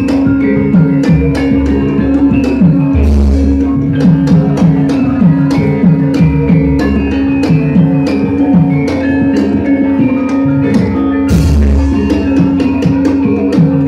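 Javanese gamelan music for wayang played loud through a PA sound system: quick runs of struck, ringing metallophone notes over a steady held tone, with a few deep low bass strikes, one about three seconds in and another near the end.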